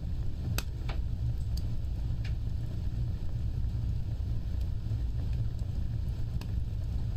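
Wood fire burning with a steady low rumble of flames and a few sharp crackles and pops, most of them in the first couple of seconds and one more near the end.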